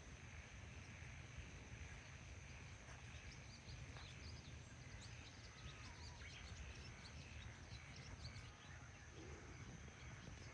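Near silence: faint outdoor ambience with a low steady rumble, a thin steady high tone, and scattered faint high chirps, bird-like, through the middle few seconds.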